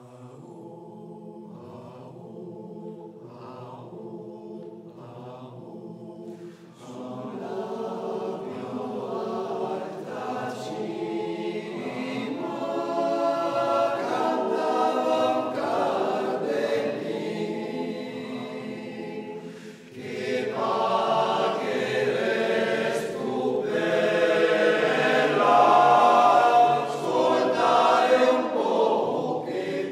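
Male voice choir singing a cappella in close harmony. The choir starts softly, swells about seven seconds in, drops back briefly around twenty seconds, then builds to its loudest near the end.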